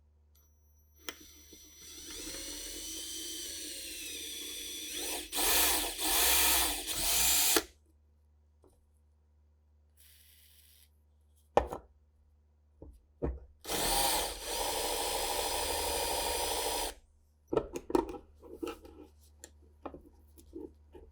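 Small electric power tool running in two stretches, its motor pitch wavering and growing louder in the last couple of seconds of the first run, then a second steady run. Short clicks and knocks of handled parts come between the runs and after.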